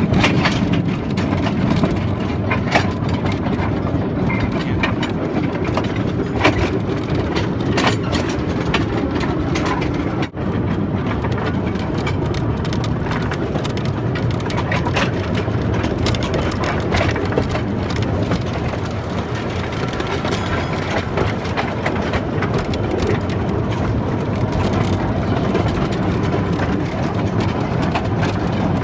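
Ride-on train running along its track: a steady low engine or rolling noise with frequent irregular clacks and knocks from the wheels and cars.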